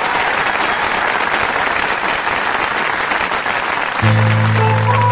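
Audience applauding; about four seconds in, the band starts the song's instrumental intro with held low chords and a melody line stepping above them.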